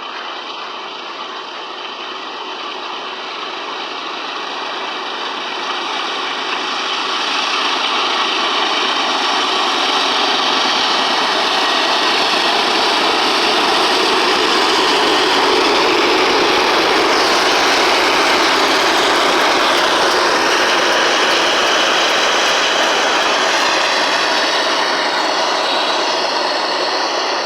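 Loaded freight train rolling past, with the rear pair of GE C44-9W diesel locomotives coming up and running by; the noise grows louder over the first several seconds and then stays loud.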